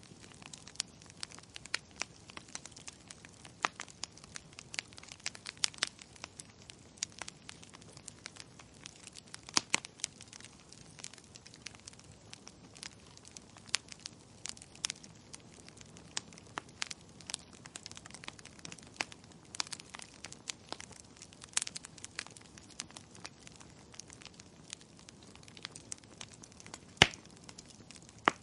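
Wood fire crackling: a steady scatter of irregular sharp pops and snaps from burning firewood over a soft hiss, with one louder pop near the end.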